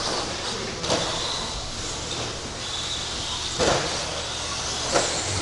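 Electric RC stadium trucks with 13.5-turn brushless motors running on a track: a faint high motor whine rising and falling, with three sharp knocks, about one, three and a half and five seconds in.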